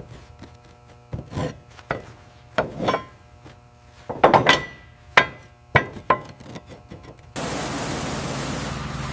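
Workshop tool noises: a run of separate, irregularly spaced knocks and scrapes, the loudest cluster about four seconds in. Near the end a steady hiss cuts in suddenly.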